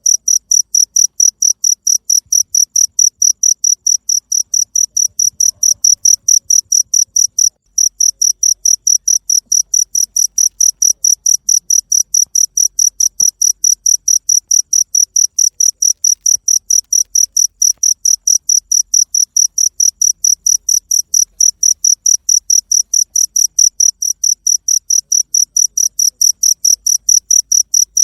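Cricket chirping in a steady, even rhythm of high chirps, about four a second, with a brief break about seven seconds in.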